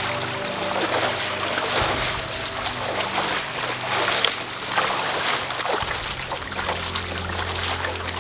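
Water splashing and trickling in a steady run of small irregular splashes.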